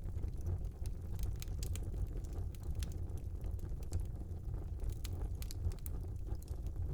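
Fire burning in a small fireplace: a steady low rumble with scattered sharp crackles and pops at irregular intervals.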